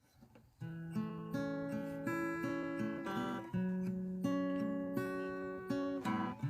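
Acoustic guitar music, plucked notes and chords changing about every half second, starting just over half a second in.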